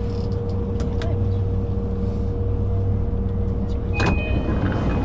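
Sobu Line rapid commuter train running between stations, heard from inside the carriage: a steady low rumble with a held hum. About four seconds in there is a sharp click, followed by a high, steady whine and some rattling.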